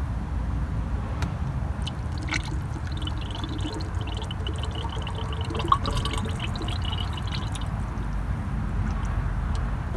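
Antifreeze being poured into the car's cooling system, gurgling and glugging from about three seconds in until near eight seconds, over a steady low rumble.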